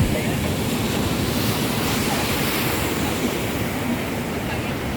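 Ocean surf washing on a beach, a steady rush that swells about two seconds in, with wind buffeting the microphone.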